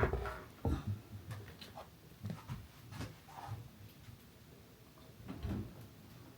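Scattered clicks and knocks of hands handling a small battery-operated decoration while AA batteries are fitted, with the loudest knock right at the start and another just under a second in.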